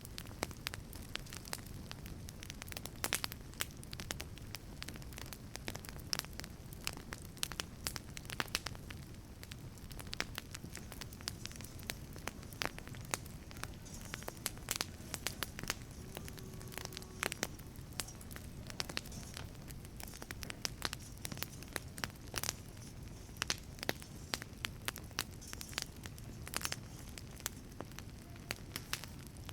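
Wood fire burning in a wood-fired pizza oven, crackling with frequent irregular sharp pops over a low, steady rushing noise, with a brief faint whistle about halfway through.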